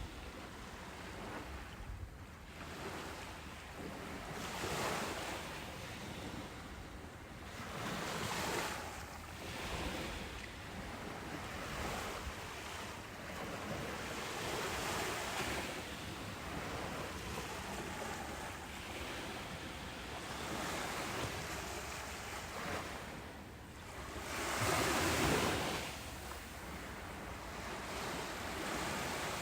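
Ocean waves breaking and washing up a beach, a steady hiss of surf that swells and eases every few seconds, with the loudest break near the end.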